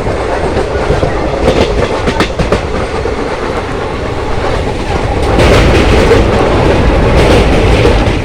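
Train running along the track, recorded from on board: a steady rumble with clusters of wheel clatter over rail joints, louder from about five seconds in.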